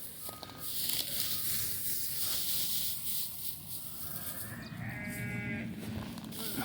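Rustling with small clicks as St Croix hair sheep pick through spread feed, then one sheep bleats once, a drawn-out call of about a second, around five seconds in.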